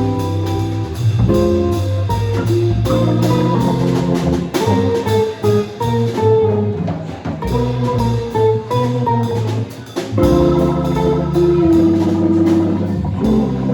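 A live band playing an instrumental passage with drum kit and guitar. The music thins out briefly about ten seconds in, then the full band comes back in.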